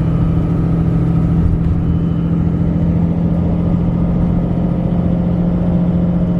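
Steady cabin noise of a vehicle cruising along a highway: engine drone and tyre rumble with a constant low hum.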